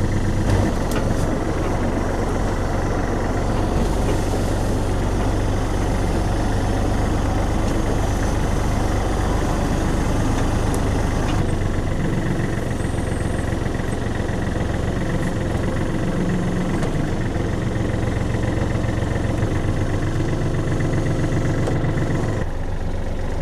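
Kubota tractor's diesel engine running steadily, its note shifting about halfway through.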